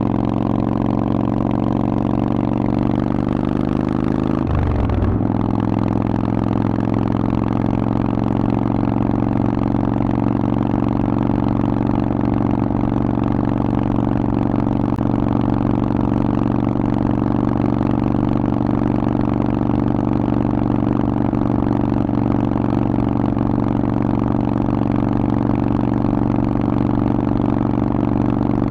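Harley-Davidson Forty-Eight's 1200 cc air-cooled V-twin running steadily through a Vance & Hines aftermarket exhaust while riding. The engine note sags slightly and breaks briefly about four to five seconds in, then holds steady.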